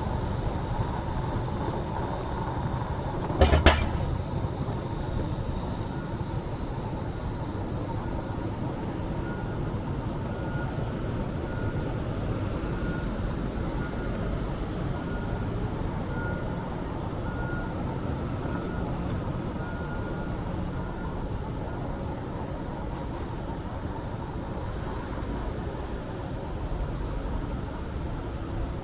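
Steady road-traffic and wind noise heard from a moving bicycle, with a sharp rattling knock about three and a half seconds in. Through the middle stretch a faint high beep repeats a little faster than once a second.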